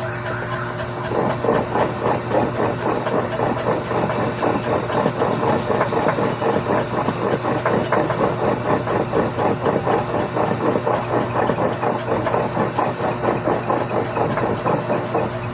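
An engine idling with a fast, even clatter over a steady low hum.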